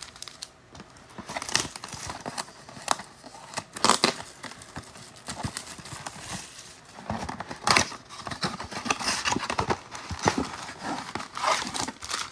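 Foil trading-card pack wrappers crinkling and being torn open, with scattered sharp clicks and knocks as the packs and cards are handled on a table.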